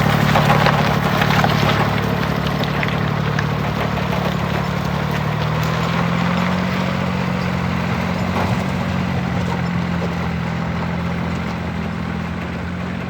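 An engine running steadily at idle with a low, even hum, getting gradually a little quieter over the stretch.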